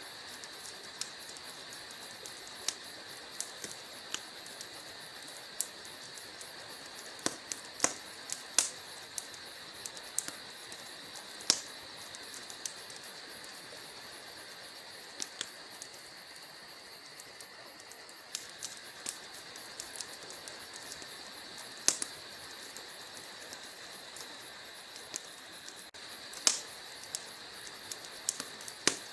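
Wood fire burning in a fireplace: logs crackling with irregular sharp pops over a steady hiss.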